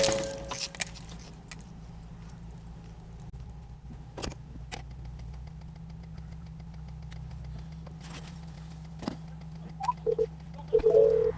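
Steady low hum of a vehicle's engine or cabin, with a few scattered sharp clicks and short beeping tones near the end.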